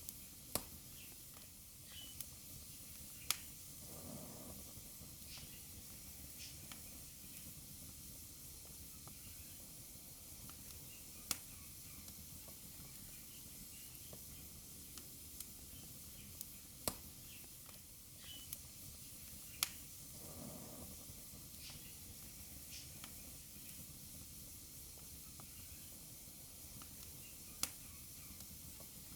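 Fire burning in a fireplace: a faint steady hiss broken by sharp crackles and pops every few seconds, about six of them loud, and twice a soft low rush of flame.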